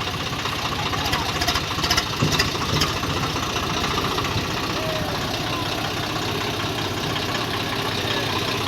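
Tractor engine idling steadily, with a few sharp clicks between about one and three seconds in.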